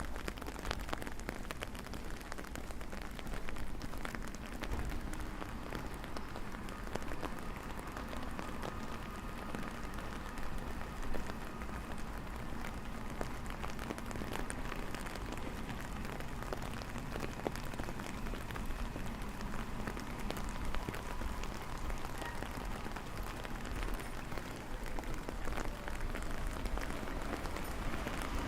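Steady rain falling and pattering on hard surfaces, a dense run of small drop impacts.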